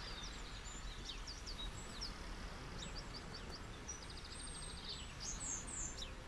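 Small birds chirping with many short, high notes and a quick trill about four seconds in, over a steady hiss of surf.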